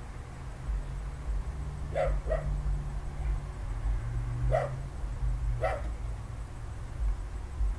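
A dog barking, four short barks: two in quick succession about two seconds in, then two single barks a second apart near the middle, over a low steady hum.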